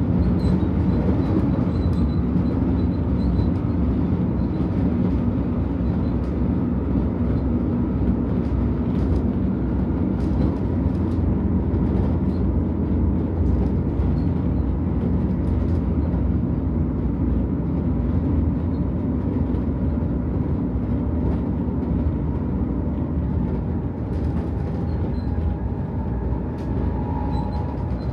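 Stockholm commuter train (pendeltåg) running at speed, heard from inside the carriage: a steady rumble of wheels on rail with a low hum and a few faint ticks, easing slightly near the end.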